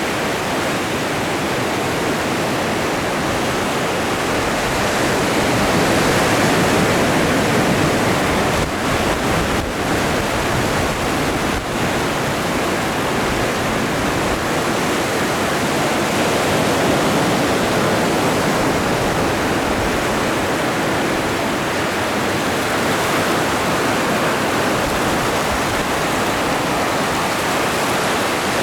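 Atlantic Ocean surf: a continuous rush of breaking and washing waves, swelling gently a couple of times.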